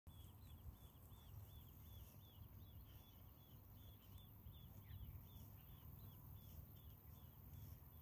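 Faint outdoor ambience: a small bird calling in a steady series of short chirps, about two or three a second, over a low rumble.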